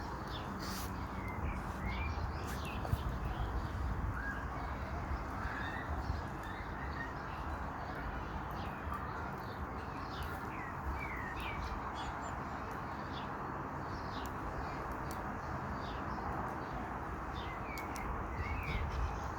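Small birds chirping now and then, as short rising notes, over a steady hiss and low rumble with scattered faint clicks.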